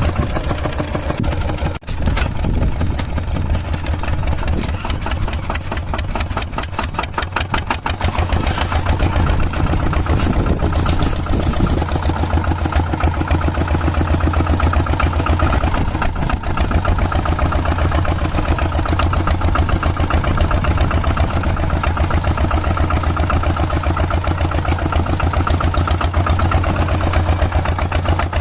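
Tractor engine running steadily with a rapid, even chugging beat, briefly cutting out about two seconds in.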